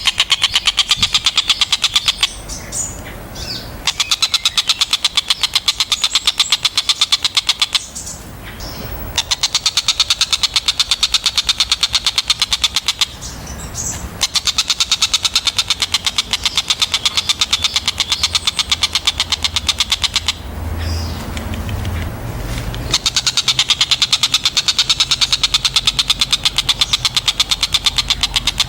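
Tengkek buto (stork-billed kingfisher) giving a fast, even, rattling call. It comes in five bouts of a few seconds each, with short pauses between them.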